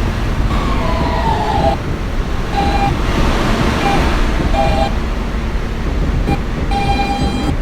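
Subway train rumbling with high metallic wheel and brake squeals: a falling squeal about half a second in, then several shorter squeals at one pitch.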